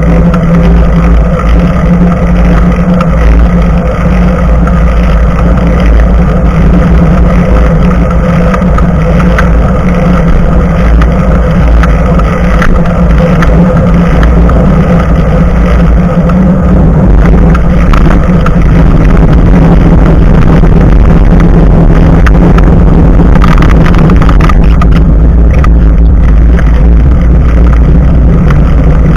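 Loud, steady rumble of wind buffeting and bicycle tyre noise on the road, picked up by a microphone mounted just above the front tyre while riding.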